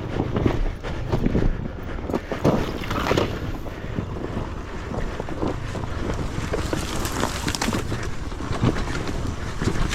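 Dirt bike engine running on a rough off-road trail, with wind buffeting the microphone and frequent short knocks and rattles from the terrain.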